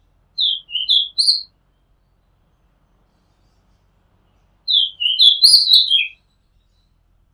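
Oriental magpie-robin singing: two short phrases of clear whistled notes, the first about half a second in and the second, longer one about five seconds in, with a pause between.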